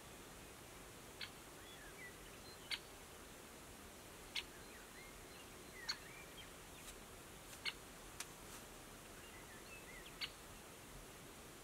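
Small wild birds calling in the background: a short, sharp call repeated about every second and a half, with faint twittering between the calls.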